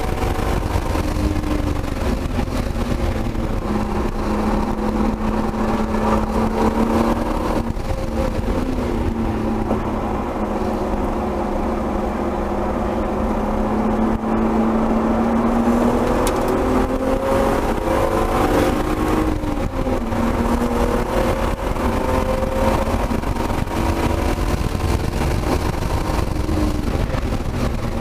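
Turbocharged 1999 BMW M3's inline-six engine under load on a race track, heard from inside the cabin. Its note holds fairly steady and sags slowly through the middle, climbs again from about halfway, and drops sharply near two-thirds of the way in. Road and wind noise run underneath.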